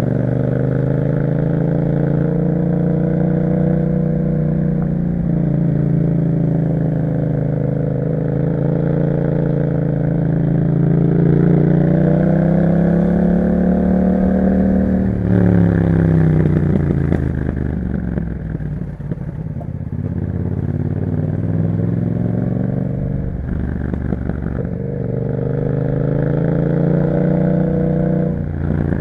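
2021 Yamaha MT-07's 689 cc parallel-twin engine running through an Akrapovic exhaust while riding. The pitch climbs under throttle, drops sharply about halfway through, falls away and then climbs again, with another sudden drop near the end.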